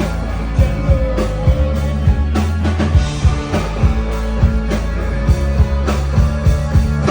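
Live rock band playing a song, with guitar, bass and a steady drum beat.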